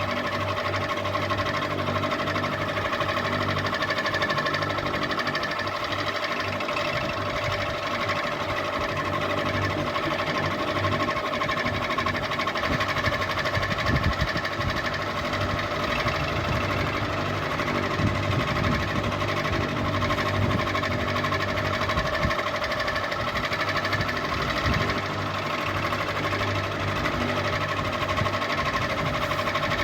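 Ceiling fan running at a steady speed: a continuous motor hum and whir with a few steady tones.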